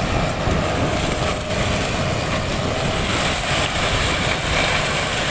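Heavy diesel field machine running steadily at working load, with a dense, even mechanical din.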